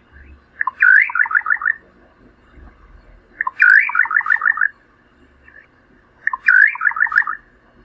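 Little nightjar singing: three phrases about three seconds apart, each a rising note followed by a quick run of about six short notes.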